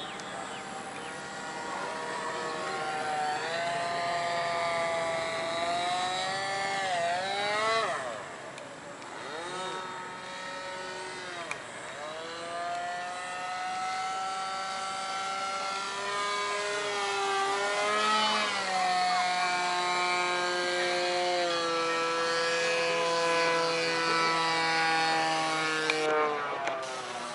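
Radio-controlled model airplane's motor running in flight, a buzzing whine whose pitch keeps rising and falling as the plane passes and changes throttle, with a sharp swoop in pitch about eight seconds in.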